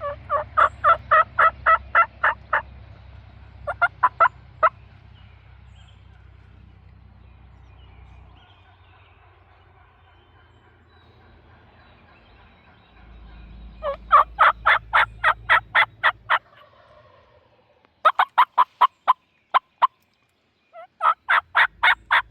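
Wild turkey calling: five runs of rapid, evenly spaced notes, each about one to two and a half seconds long, with quieter pauses between them.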